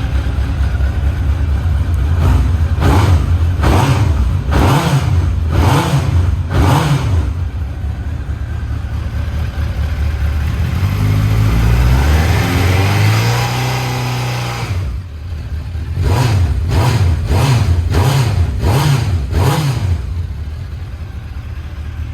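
Honda CB1000SF's inline-four engine breathing through an aftermarket carbon silencer, idling and then revved: five quick throttle blips about a second apart, a long rise held at high revs for a few seconds that drops off suddenly, then six more quick blips before it settles back to idle.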